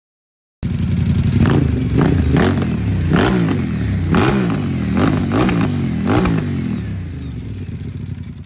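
Motorcycle engine being revved in a series of quick throttle blips, about eight in all, each rising and falling in pitch, with sharp cracks at the peaks. It starts suddenly about half a second in and the revving eases off and fades near the end.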